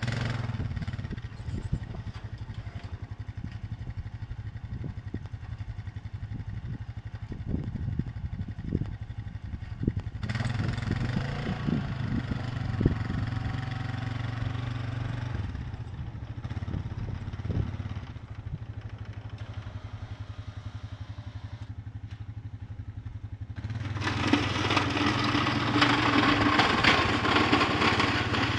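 An engine running steadily, growing louder and harsher for a few seconds near the middle and again near the end.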